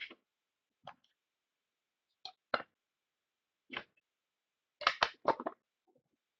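A few short clicks and snaps of trading cards and their packaging being handled, with a quick run of several clicks about five seconds in.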